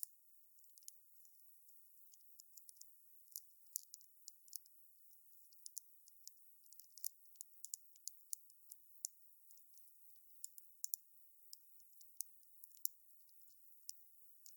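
Wood fire crackling faintly: dozens of thin, sharp snaps and pops at an irregular pace over a soft hiss.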